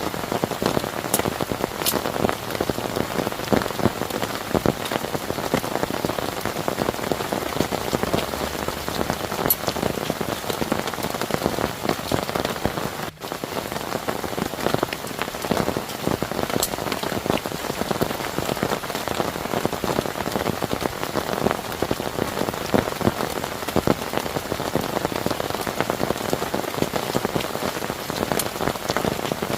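Heavy rain falling steadily, a dense patter of drops striking a surface close by, with a momentary break about thirteen seconds in.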